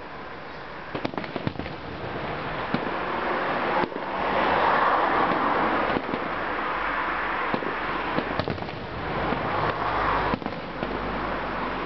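Fireworks going off: scattered bangs, then from about four seconds in a dense, loud crackling that lasts several seconds, with more bangs through it.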